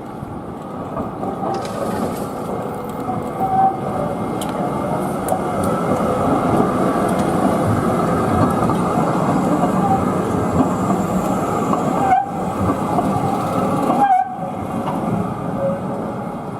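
Tram running along the rails close by: a loud, steady rumble of wheels on track that builds over the first few seconds, with a few brief high squealing tones.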